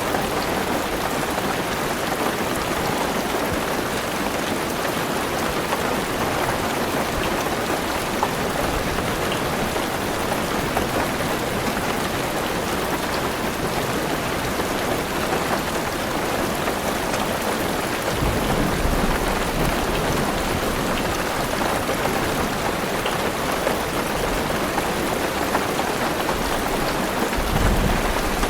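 Heavy rain pattering steadily on a car roof and windows. Low thunder rumbles come in about two-thirds of the way through and again near the end.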